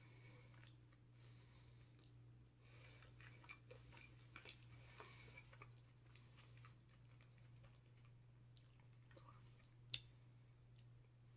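Faint chewing and small clicks from a fork working on a paper plate, over a low steady hum. A single sharp click about ten seconds in.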